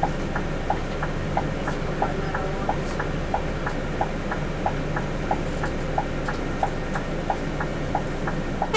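Scania K360i coach running, heard from inside the cabin: a steady engine and road rumble with a sharp regular clicking about three times a second, and one louder click near the end.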